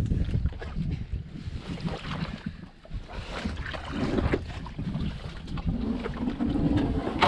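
Wind rumbling on the microphone in uneven gusts, with scattered knocks and brief low sounds mixed in.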